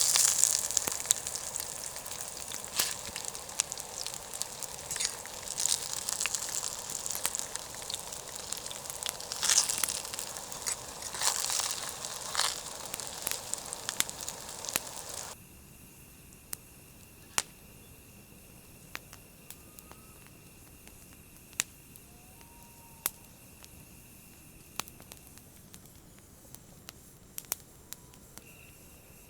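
Campfire burning, crackling and hissing with frequent sharp pops. About halfway through the sound drops abruptly to a much quieter stretch with only scattered sharp pops and a faint steady high tone.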